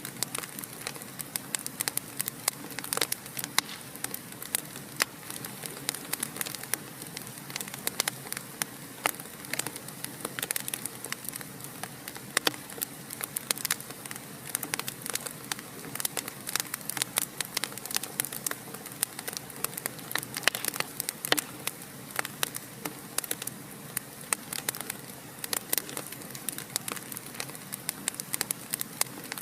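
Fire in a fireplace crackling steadily: many sharp pops and snaps, several a second, over a soft hiss.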